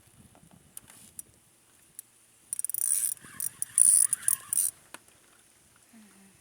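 Fishing reel clicking and rattling in rapid bursts for about two seconds midway, while a hooked catfish is being played.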